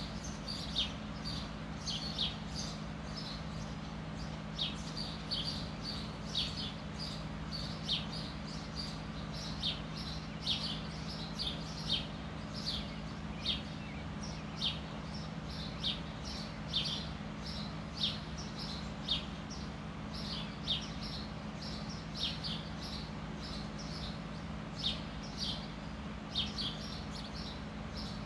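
A bird chirping over and over: short, high, quickly falling chirps about once a second, some in quick pairs, over a steady low hum.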